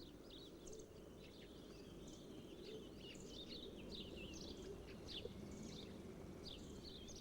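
Faint outdoor ambience: many short, high bird chirps scattered throughout, over a low steady background noise.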